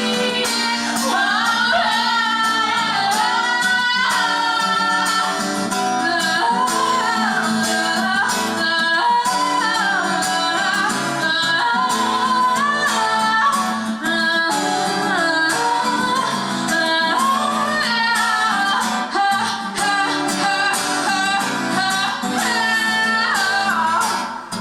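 Live band playing: a woman singing a wavering melody over guitar accompaniment.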